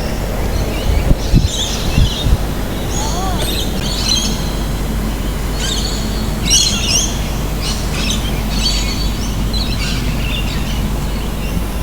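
Birds chirping in short runs of high calls again and again, over a steady low rumble. A few low thumps sound in the first couple of seconds.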